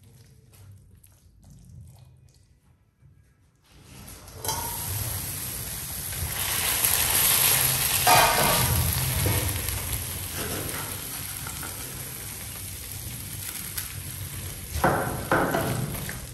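Chopped tomatoes sizzling in a frying pan as a silicone spatula stirs them. The first few seconds are quiet with soft stirring, then a loud sizzle starts about four seconds in and keeps on, with a couple of louder spatula strokes near the end.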